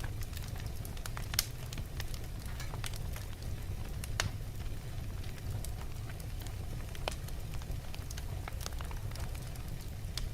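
Wood fire burning in a fireplace, crackling with frequent small pops over a steady low rumble. Two sharper pops stand out, one early and one about four seconds in.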